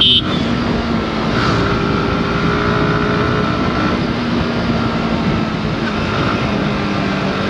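Yamaha R15 V4's 155 cc single-cylinder engine running at a steady pace while riding, mixed with road and traffic noise. A horn honk finishes right at the start.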